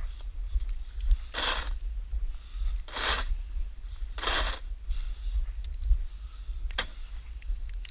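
Snow shovel scraping through snow in three strokes about a second and a half apart, followed by a single sharp click, over a steady low rumble.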